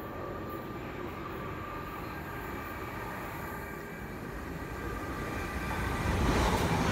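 Train approaching along the platform: a steady rail rumble with a faint high whine, growing steadily louder over the last couple of seconds as it draws near.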